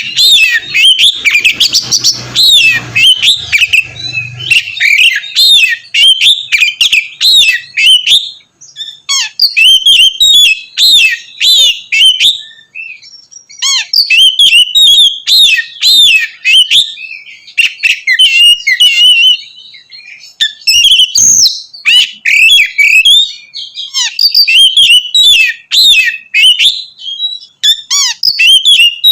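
Oriental magpie-robin (kacer) singing loudly, a fast run of varied whistled and chattering notes delivered in bursts of several seconds with brief pauses between.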